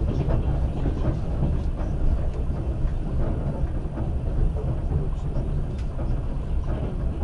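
Russian passenger train running along the line, heard from inside the carriage: a steady low rumble of wheels on rail with faint scattered clicks.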